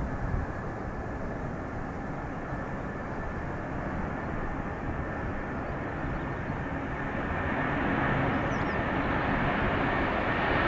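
Airbus A330-200 jet airliner departing, heard at a distance as a steady engine rumble with a thin high whine, growing slowly louder in the second half.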